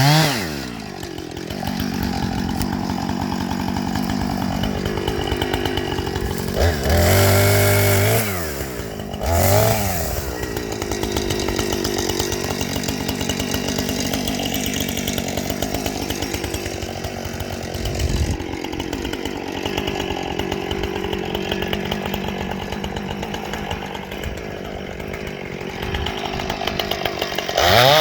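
Chainsaw engine running steadily, its pitch sweeping up and back down as the throttle is opened and released a few times.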